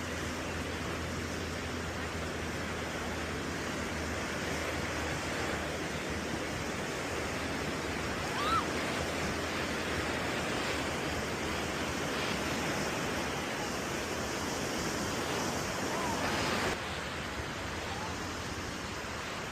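Ocean surf washing onto the beach, a steady rush of waves, with a short high chirp about eight seconds in. The rush drops a little and suddenly near the end.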